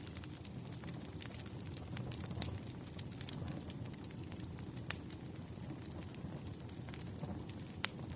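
Wood fire burning: a steady low rumble with irregular sharp crackles and pops, the loudest about five seconds in and again near the end.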